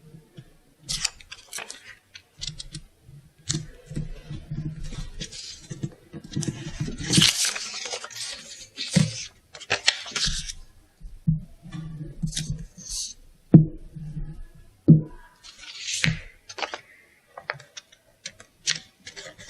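Hand crafting sounds: paper or tape rustling and tearing in irregular bursts, with scissor snips and small clicks and knocks.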